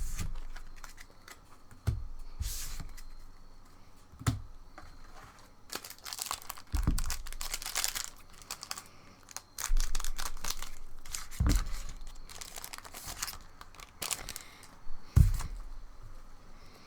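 Foil booster pack wrappers being torn open and crinkled, in irregular rustling stretches, with about five soft knocks against the table along the way.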